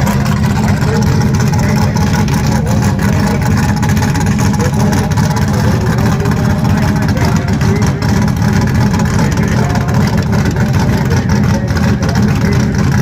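Car engine running, a loud, steady low drone without clear revs.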